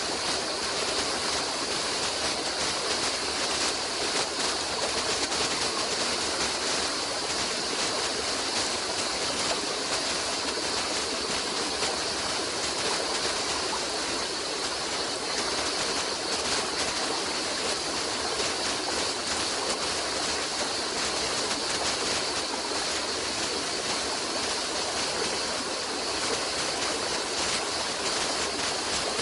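A stream of water flowing, a steady, unbroken rush.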